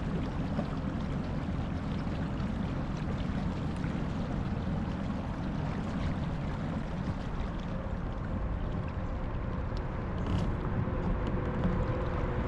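Steady rush of water and a low rumble as a kayak moves along the river.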